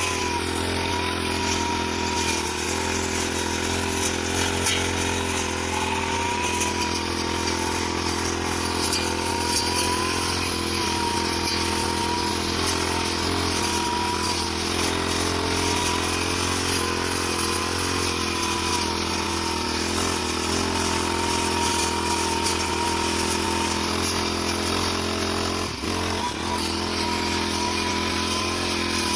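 Grass-cutting machine's engine running steadily at a constant speed, its pitch wavering slightly.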